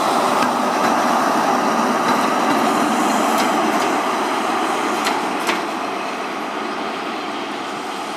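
InterCity 125 train with a Class 43 diesel power car pulling away, its engine running steadily over the rumble of the coaches, with a few sharp clicks of wheels over rail joints. The sound fades from about five seconds in as the train draws away.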